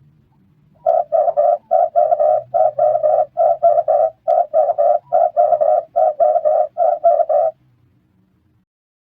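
Red turtle dove cooing: a long run of short, rapid, repeated low coos, about four a second. It starts about a second in and stops with under two seconds to go.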